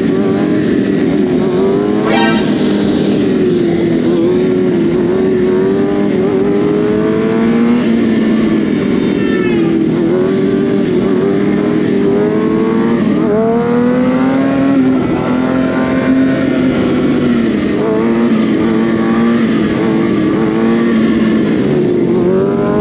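Several motorcycle and mini bike engines running together on a group ride, their pitches overlapping and repeatedly rising and falling as riders rev and change speed.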